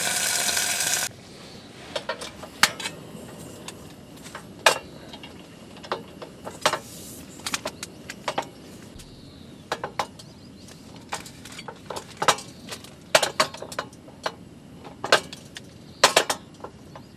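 A loud steady hiss stops abruptly about a second in. Then come scattered light clinks and taps of metal cookware and utensils being handled.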